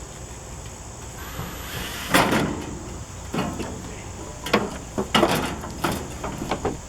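A run of irregular metal knocks and clanks with some scraping, about six over a few seconds, from an air conditioner being taken apart by hand for scrap.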